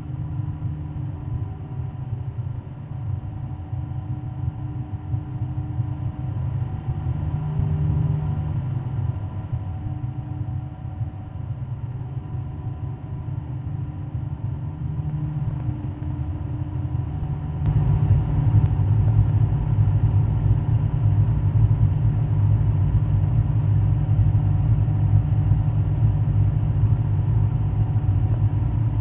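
Race-car engines idling in a steady low rumble. About eighteen seconds in, a click is followed by the rumble growing louder and staying up.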